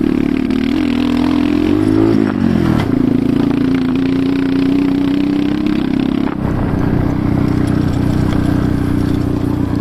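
Enduro motorcycle engine running under way, its pitch rising and falling about two seconds in, then holding steady; the note drops to a lower, steady pitch about six seconds in.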